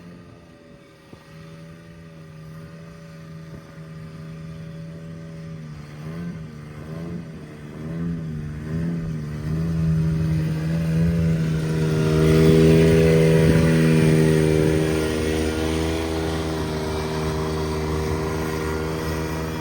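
Cub Cadet 782 garden tractor engine running in sub-zero cold. Its pitch wavers up and down for a few seconds, then it steadies and grows louder about halfway through.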